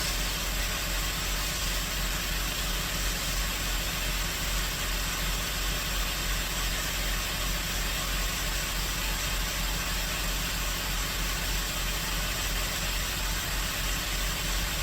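2010 Chrysler 300 engine idling steadily, with a constant hiss over the low hum, while the freshly replaced radiator's cooling system is run up to pressure to push out trapped air.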